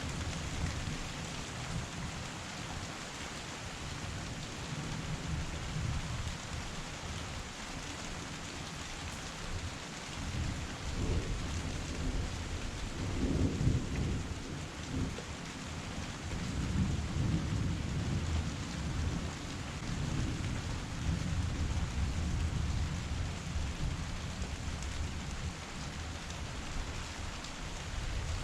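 Heavy rain pouring steadily onto surfaces, with a deep uneven rumbling underneath that swells around the middle.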